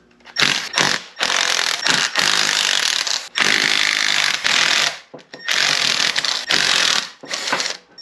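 A power tool, of the ratchet or impact-gun kind, running in about seven separate bursts of half a second to a second and a half each, with short pauses between them.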